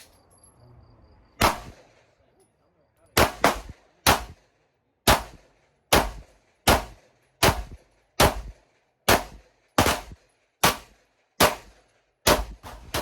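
Shadow Systems MR920 9mm pistol fired in a steady mag dump: about fifteen single shots, roughly one a second, emptying the magazine.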